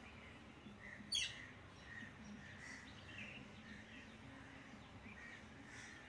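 Birds calling in foliage: faint scattered chirps throughout, and one loud, sharp, high-pitched call about a second in.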